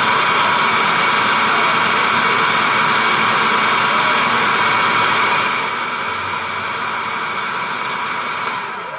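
Food processor motor running steadily, puréeing baked salmon with brown rice and vegetables. It drops a little in level about halfway through and cuts off at the very end.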